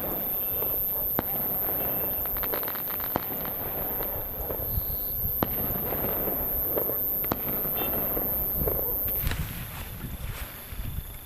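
Distant firecrackers going off across a valley: sharp bangs about every two seconds and a brief burst of crackling, over a continuous rolling echo that reverberates all around.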